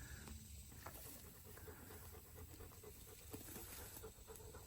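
A dog panting faintly in a quick, steady rhythm.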